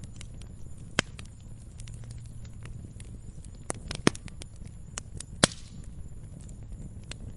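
Log fire crackling: a steady low rumble of burning with scattered sharp pops and snaps, the loudest about a second in, about four seconds in, and about five and a half seconds in.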